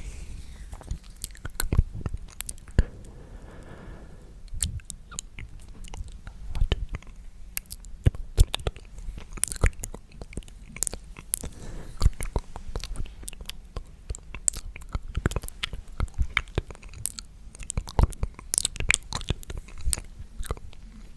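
Close-miked ASMR mouth sounds: a dense, irregular run of wet clicks and smacks.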